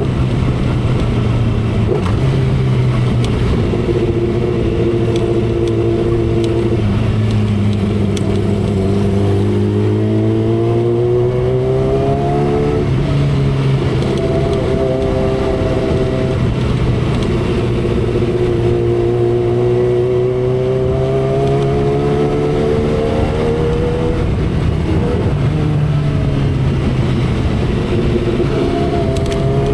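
2012 Kawasaki Ninja ZX-10R's inline-four engine at speed, heard from the saddle over heavy wind rush. Its note climbs in pitch three times as the bike pulls and drops back between, as with throttle and gear changes.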